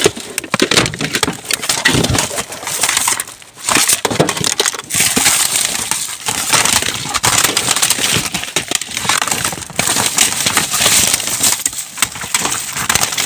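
Rubbish shifting and being trodden on inside a dumpster: continuous crunching, crackling and clattering of plastic bags and hard plastic items, with many sharp clicks, and a short lull about three and a half seconds in.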